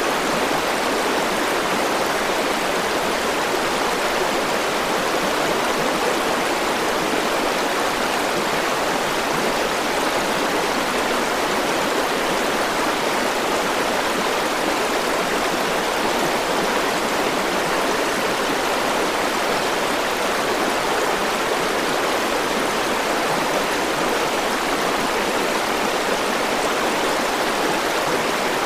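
A river flowing steadily, a continuous rushing of water with no breaks or separate sounds.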